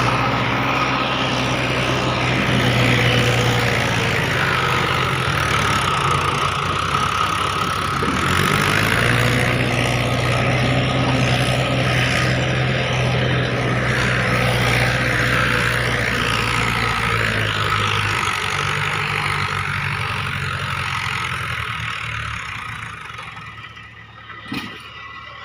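Mahindra 475 tractor's diesel engine running steadily, fading away over the last few seconds, with a single knock near the end.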